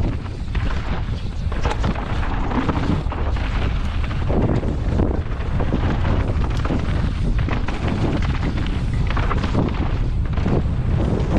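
Wind buffeting the microphone of a camera on a mountain bike riding fast downhill, with the bike's frequent knocks and rattles over rough dirt trail.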